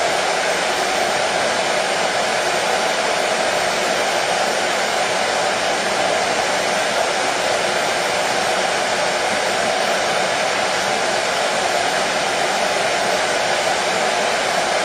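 Hair dryer running steadily: an even, unbroken rush of air and motor noise that does not change.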